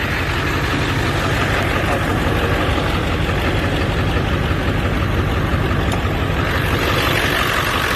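1999 Ford F-350's 7.3 L Power Stroke turbo-diesel V8 idling steadily.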